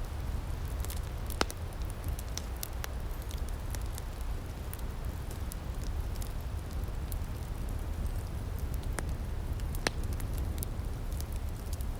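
Outdoor wood fire crackling, with irregular sharp pops over a steady low rumble; two louder pops come about a second in and near ten seconds in.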